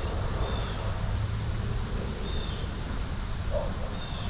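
Outdoor ambience: a steady low rumble, with faint short bird chirps every second or two.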